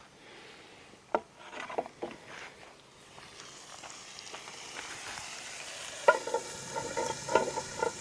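Pork chops sizzling in oil in a cast iron skillet, the sizzle growing louder from about halfway. A few light knocks early on, then several metal clanks with a ringing tone near the end as the cover on the pan is handled.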